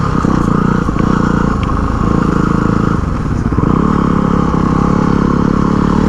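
Yamaha WR dual-sport motorcycle's single-cylinder four-stroke engine pulling hard under open throttle, its exhaust note heard steadily from the bike.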